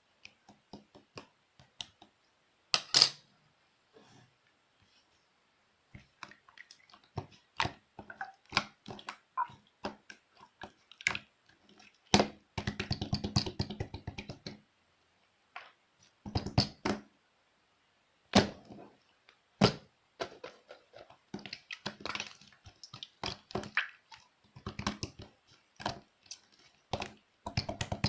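Glitter slime being squeezed and folded by hand: irregular wet clicks and pops of trapped air, with a fast run of crackling pops about halfway through.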